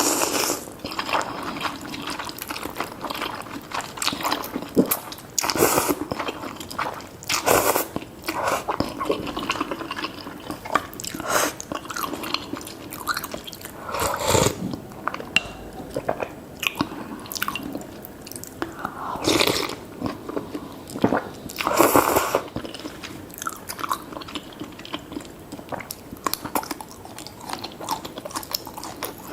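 Close-miked eating of spicy seafood noodle soup: wet chewing and biting with many small mouth clicks, broken about five times by longer, louder slurps.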